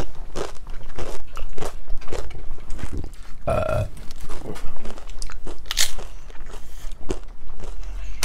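Tortilla chips crunching as they are bitten and chewed close to the microphone, two or three crunches a second. A brief hummed vocal sound about three and a half seconds in.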